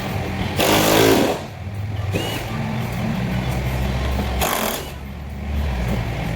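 Auto repair shop noise: a steady low machine hum, broken twice by a short loud burst of mechanical noise, the first with a rapid buzzing pulse.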